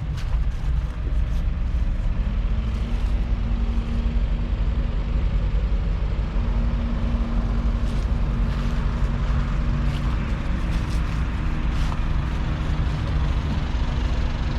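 The 6.8-litre six-cylinder diesel engine of a John Deere 6210R tractor, running at a steady pitch with a constant low rumble.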